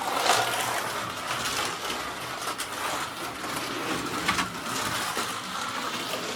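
A Carrera BMW slot car running laps: its small electric motor whines steadily as it goes around the track, with a few brief clicks.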